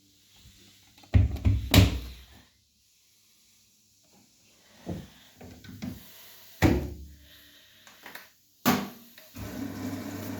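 Arçelik 9120M washing machine being handled, with several separate knocks and clicks. From about nine seconds in a steady hum sets in as the machine starts filling with water.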